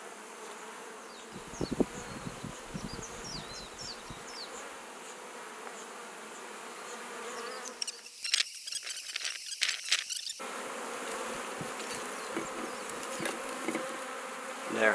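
Swarm of honey bees buzzing steadily around a hive. A few knocks come about two seconds in, and a louder run of clattering and scraping comes about eight to ten seconds in as the wooden hive roof is set on.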